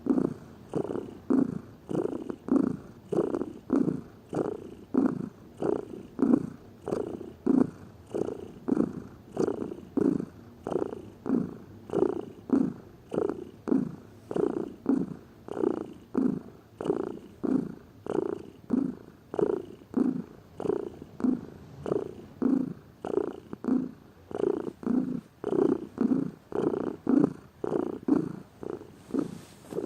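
Domestic cat purring close up, a steady rhythm of pulses about three every two seconds as the purr follows its breathing in and out.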